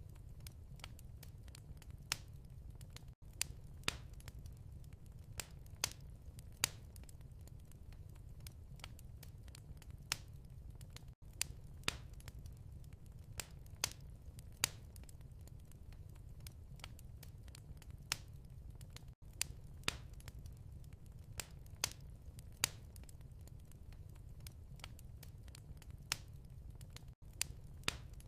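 Wood fire crackling in a fireplace: a steady low rumble with irregular sharp pops and snaps. A brief gap in the sound comes about every eight seconds.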